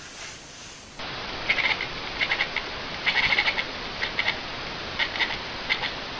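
A small animal making short, high squeaks in quick clusters of several at a time, over a steady background hiss, starting about a second in.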